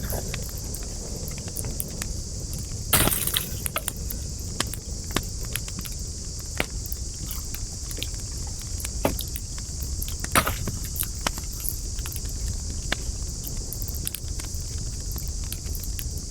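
Wood campfire crackling: scattered sharp snaps and pops over a steady low rumble and a steady high hiss, with a louder burst of crackling about three seconds in and a sharp pop about ten seconds in.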